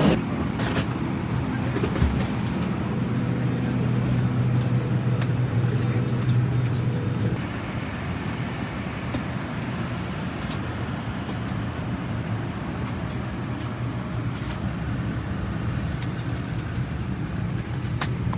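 Steady rumble of a moving vehicle, with a low hum that stops about seven seconds in.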